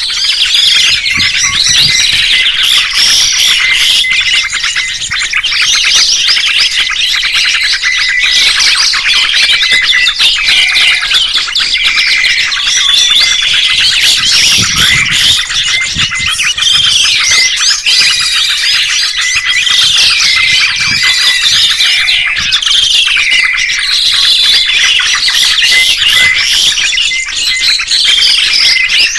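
Several songbirds chirping and singing at once, many fast, overlapping calls and trills, with one note repeating at a steady pitch under the rest.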